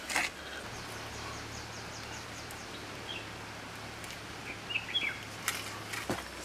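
Outdoor ambience in a forest clearing: a few short bird chirps and a quick run of faint high ticks over steady background noise. A sharp knock comes just after the start and a couple more near the end.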